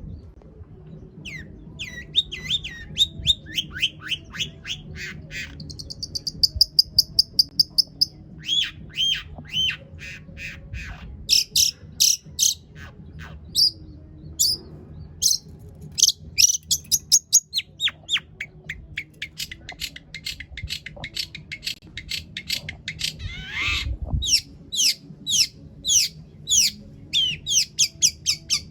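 Long-tailed shrike (cendet) singing a long, varied song of rapid, sharp repeated notes and fast trills that shift from phrase to phrase. The whole song is a lure recording played to set other shrikes singing.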